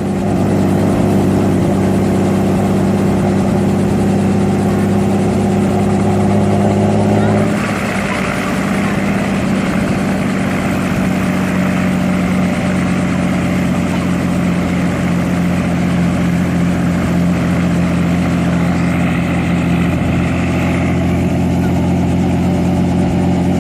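Engine running with a steady, loud hum; about seven and a half seconds in its tone changes abruptly, the low hum dropping and a hissier rush taking over.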